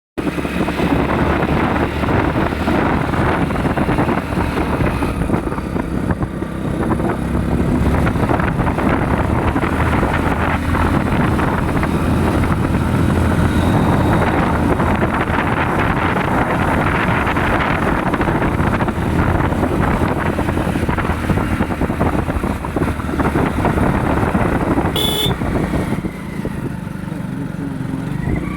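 Hero Splendor motorcycle's single-cylinder four-stroke engine running on the move, under a steady rushing noise. Near the end there is one brief sharp high-pitched sound.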